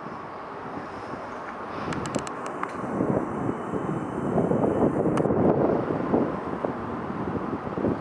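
Wind buffeting the microphone in uneven gusts, strongest through the middle, over a steady outdoor rumble, with a few faint clicks about two seconds in.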